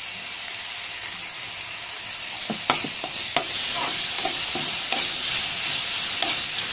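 Ginger-garlic paste and onions sizzling in hot oil in a metal kadai, stirred with a perforated metal ladle that scrapes and taps the pan from about two and a half seconds in. The sizzle grows louder about halfway through as the paste is stirred into the oil.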